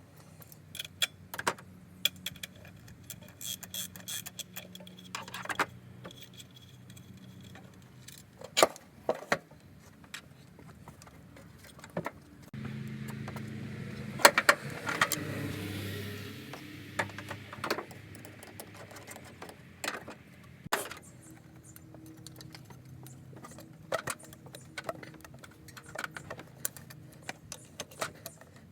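Scattered metallic clinks and clicks of tools and parts being handled. Midway a steady low hum comes in suddenly and fades out after about four seconds.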